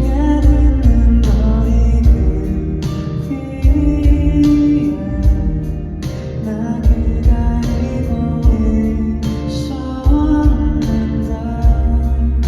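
A male singer singing live with a band: the voice carries the melody over a heavy bass line and regular drum hits.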